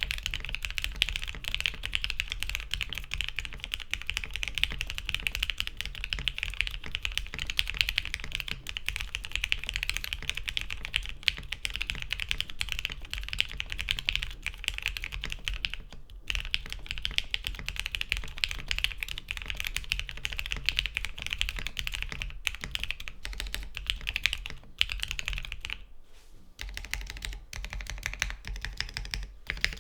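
Continuous fast typing on a Geonworks Frog TKL custom mechanical keyboard with lubed, filmed OP Black linear switches in a full aluminium plate and no foam dampening. Keystrokes clack densely, with brief pauses about 16 and 26 seconds in.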